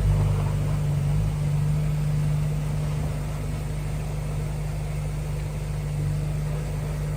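Heavy diesel construction machinery engine running steadily, a low drone.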